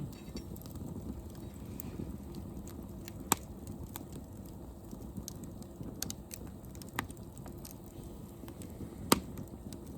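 Wood fire crackling, with scattered sharp pops over a low steady rumble; the loudest pops come about a third of the way in, around two-thirds, and near the end.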